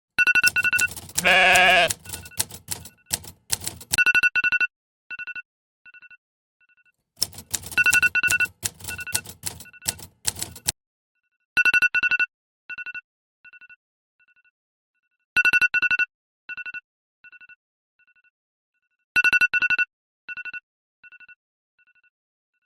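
Electronic phone ringtone: a group of bright two-pitch beeps that echo and fade out, the pattern repeating about every four seconds. Rapid clicking runs under the first few seconds and again around eight to ten seconds in, and a short sheep-like bleat sounds about one and a half seconds in.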